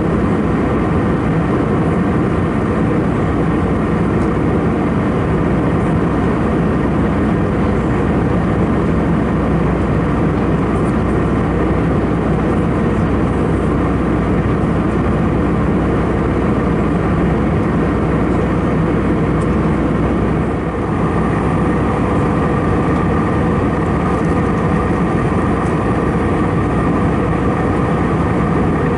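Steady cabin noise of an Airbus A319-111 in flight: the drone of its CFM56 engines and the rush of air over the fuselage, with a low hum throughout. The level dips briefly about two-thirds of the way through.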